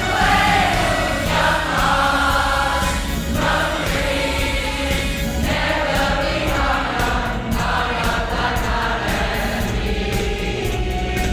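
Choir singing, with several voices sustaining and moving together throughout.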